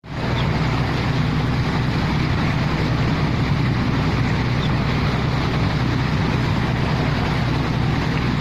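Small fishing boat's engine running steadily while under way, with a steady rushing noise over it.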